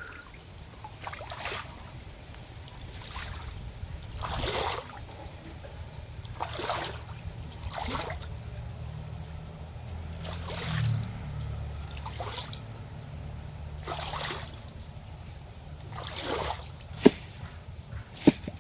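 Water sloshing and splashing in short bursts every second or two over a steady low hum, with a few sharp clicks near the end.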